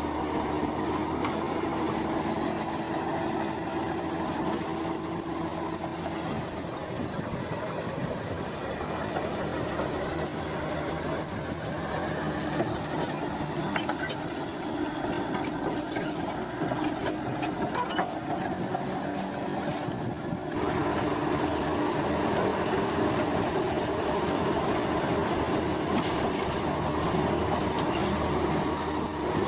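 Crawler bulldozer at work: its diesel engine runs steadily while the steel tracks squeal, with a few sharp clanks. The sound changes abruptly and gets louder about two-thirds of the way through.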